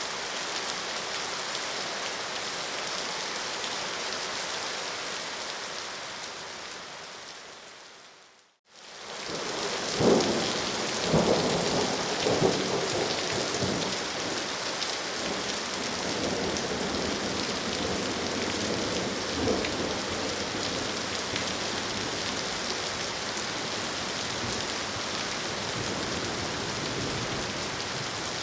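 Steady rain falling, which fades out to silence about eight seconds in and fades back in. After it returns, thunder rumbles over the rain a few times, loudest just after the fade-in.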